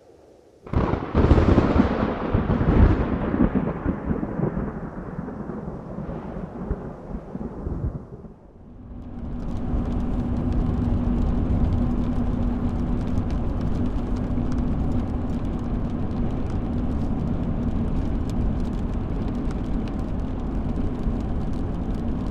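A loud thunderclap cracks just under a second in and rumbles away over about seven seconds. From about nine seconds in, a steady vehicle road noise with a low hum follows, sprinkled with many light ticks like rain hitting the car.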